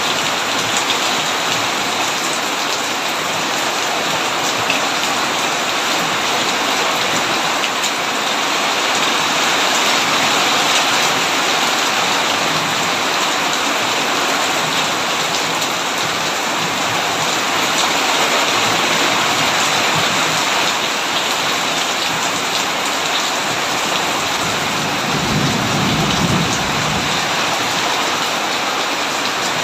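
Heavy rain drumming steadily on a tin roof, with a brief low rumble of thunder near the end.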